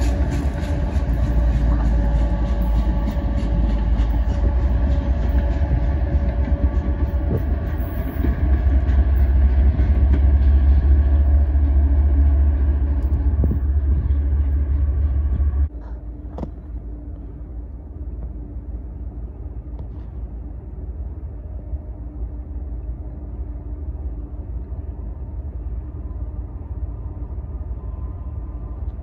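A train passing close by: a loud low rumble with steady tones and quick, even wheel clicks. The sound cuts off suddenly about halfway through, leaving a quieter steady rumble.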